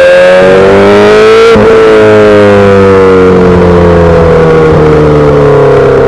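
2008 Yamaha R6's inline-four engine through a full SC-Project exhaust, under way. The revs climb for about a second and a half, break briefly at a gear change, then fall slowly as the bike eases off.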